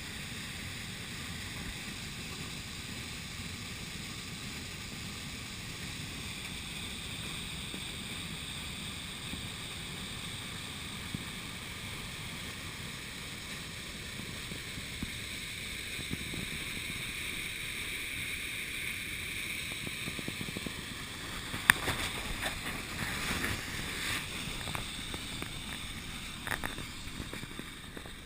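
Steady rush of river water with some wind noise on the microphone. A few sharp knocks come about three-quarters of the way through, one of them much louder than the rest.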